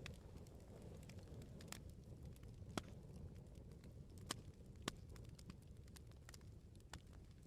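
Bonfire crackling: scattered sharp pops and snaps from burning wood, a handful louder than the rest, over a low steady rumble of the flames.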